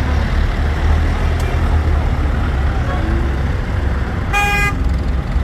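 Tractor engines running as the tractors drive past, a steady low rumble, with one short horn toot about four and a half seconds in.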